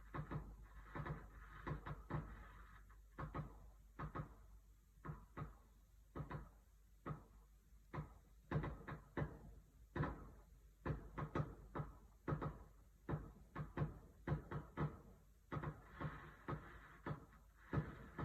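Fireworks going off: a long, irregular series of faint, sharp bangs and pops, about two a second.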